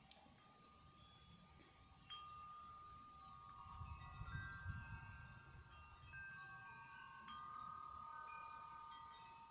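Several wind chimes ringing in the breeze, their many tones struck over and over and each note ringing on. About three and a half seconds in, a gust makes them busier and louder, with wind rumbling on the microphone for a couple of seconds.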